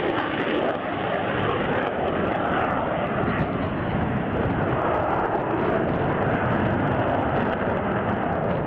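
A fixed-wing aircraft's engine sounding steadily and loudly, an even rushing noise with no clear pitch.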